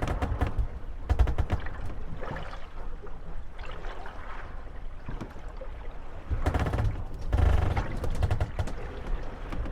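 Moored wooden gondolas rocking in the waves, knocking and creaking against each other in quick clusters of clacks, over water lapping and a low wind rumble. The knocking is densest about a second in and again from about six and a half to eight seconds.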